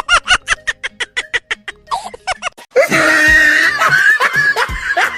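A run of short, evenly spaced bursts of laughter, several a second, for about two and a half seconds. Then a louder, denser stretch with music in it.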